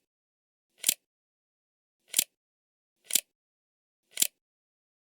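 Five short swishing sound effects, about one a second, each swelling quickly and cutting off sharply, with dead silence between them.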